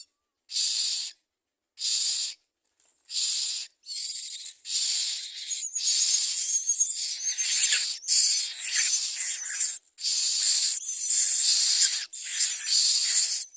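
Common myna nestlings begging: harsh, hissing rasps, repeated with short gaps at first, then coming almost without pause from about five seconds in.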